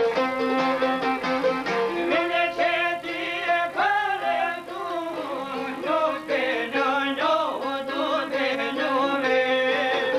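Albanian folk music led by a violin playing an ornamented melody with slides, over held accompanying notes.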